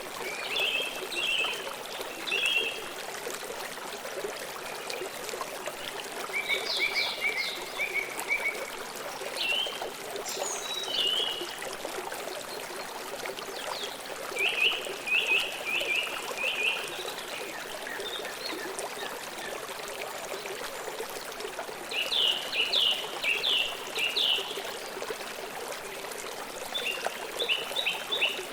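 River water flowing steadily, with a songbird singing short phrases of quick repeated chirps every few seconds.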